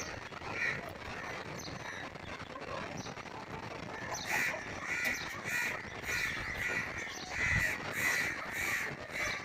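A bird calling: a few faint calls, then from about four seconds in a quick series of about eight short, loud calls, roughly two a second.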